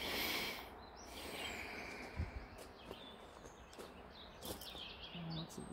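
Outdoor ambience: small birds chirping now and then over a steady background hiss, with a brief rushing noise at the very start.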